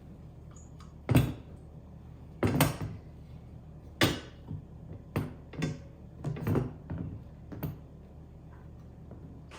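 Parts of a Gorilla dump cart being handled and fitted during assembly: a series of irregular knocks and clatters, loudest about a second in and again around the third and fifth seconds, dying away before the end.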